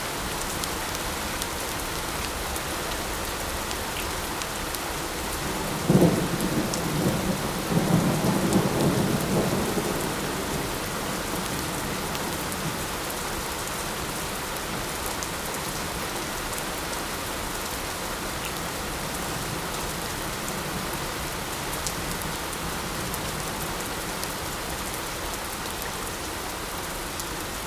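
Steady light rain hissing, with a clap of thunder about six seconds in that rumbles on for a few seconds before fading back into the rain.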